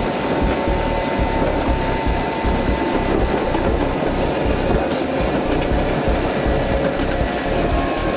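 Osaka Metro New Tram automated train running, a steady rumble of running noise with a thin, steady motor whine.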